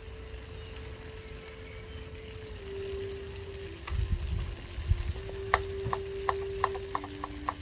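Food sizzling and frying over a campfire, with a steady tone that shifts in pitch now and then. About five and a half seconds in, a quick run of sharp taps like a knife chopping on a board.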